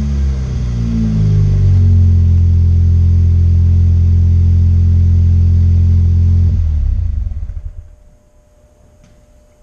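Exhaust of a turbocharged 1.8-litre four-cylinder VW Golf SportWagen through a custom 2.5-inch system with a MagnaFlow 14416 muffler: revs falling back to a steady low idle, then the engine stops about seven seconds in.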